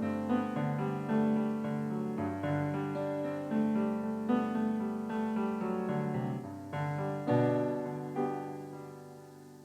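Electronic keyboard with a piano sound, improvising a slow passage of struck chords and melody notes that ring on. The sound dies away over the last two seconds or so.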